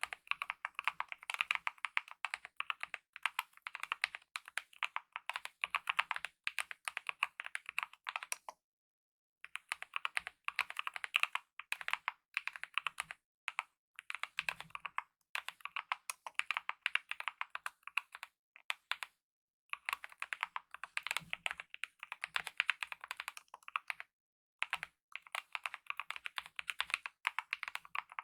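Steady typing on a Kemove mechanical keyboard with lubed optical red linear switches and DSA-profile keycaps: fast runs of key strokes, broken by a pause of about a second near the middle of the first third and a few shorter gaps.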